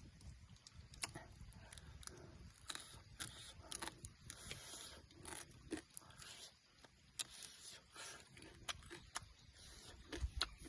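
Faint rustling, scraping and tearing sounds with many small sharp clicks scattered throughout, as of leaves and food being handled by hand.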